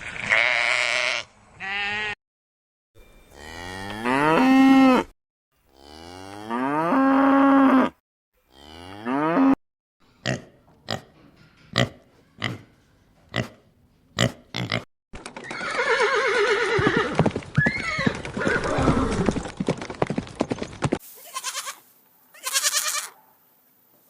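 A string of separate animal calls cut together: several long pitched cries that rise in pitch, then a run of short sharp calls, then a noisier stretch with more calls.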